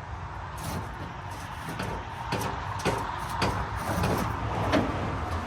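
A series of irregular knocks and clanks, about a dozen, over a steady low rumble, the loudest near the end.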